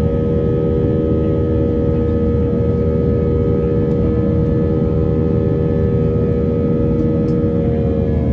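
Airbus A320's IAE V2500 jet engines running steadily, heard from inside the passenger cabin as a low rumble with several steady whining tones that shift slightly near the end.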